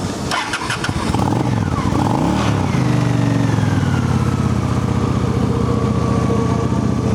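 2001 Honda Shadow ACE 750's liquid-cooled V-twin on factory exhaust being started: the starter cranks for about two seconds, the engine catches, and it settles into a steady idle.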